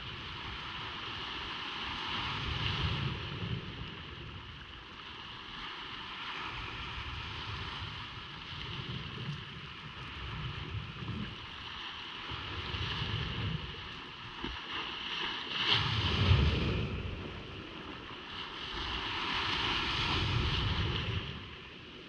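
Ocean surf washing on a beach, with wind on the microphone; the sound swells every few seconds, the strongest surge about sixteen seconds in.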